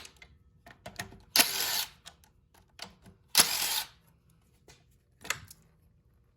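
Hand tools working on an engine's thermostat housing: scattered metal clicks, with two louder short bursts of ratcheting about two seconds apart and a fainter one near the end.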